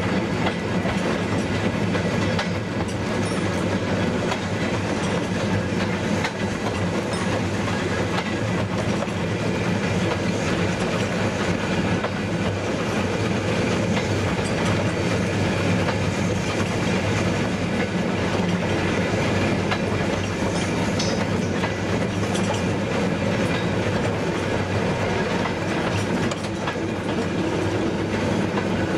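Steam-hauled heritage train running along the track: steady, unbroken noise of wheels on the rails that neither builds nor fades.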